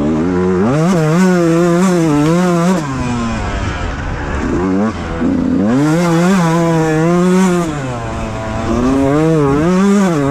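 Beta 125 two-stroke enduro engine at full throttle, revs climbing sharply and held high three times, dropping off in between.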